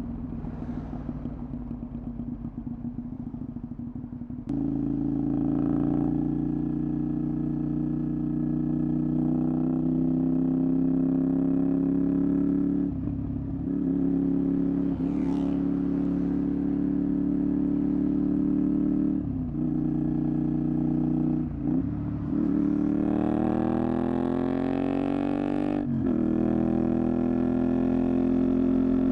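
Honda VTR250's 250 cc V-twin engine through a Moriwaki aftermarket exhaust, ridden on the road. It is quieter at first and gets louder about four and a half seconds in. The note drops away briefly several times, like a throttle closing for gear changes, and climbs steadily in pitch under acceleration near the end.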